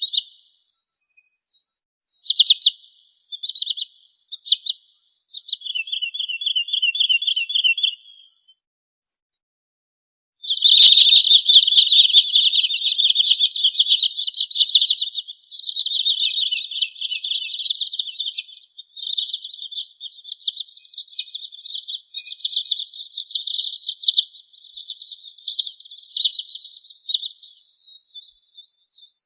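Wood sandpiper calling: a few short calls, then a quick trill of about ten notes a second. After a gap of about two seconds, a sharp click starts a long, loud run of rapid trilled calls.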